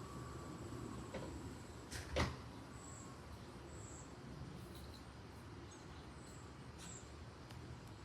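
A single sharp knock about two seconds in, with a couple of fainter clicks, over a low steady background rumble and a thin, steady high tone.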